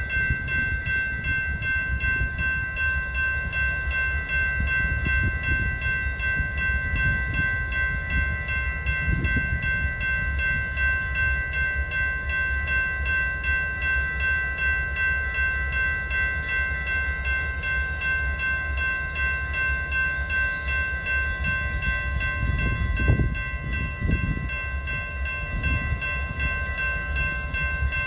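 A train running, with a continuous low rumble and a steady high whine of several tones held throughout, briefly louder about 23 seconds in.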